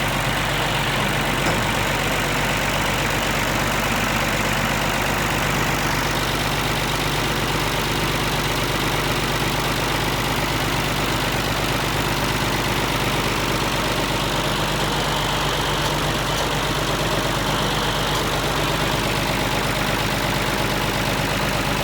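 Tractor engine idling steadily at an even pitch.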